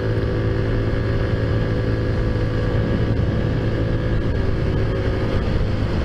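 Taotao Zummer scooter's small four-stroke engine running at a steady cruise, holding one even drone with a little road and wind noise underneath; the tone eases slightly near the end.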